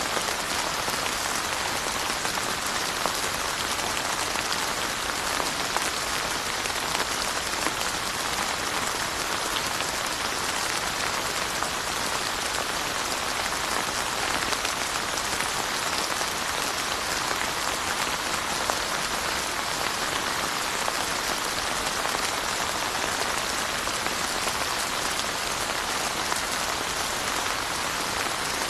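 Steady rain falling, a dense even hiss with many fine drop ticks on hard surfaces.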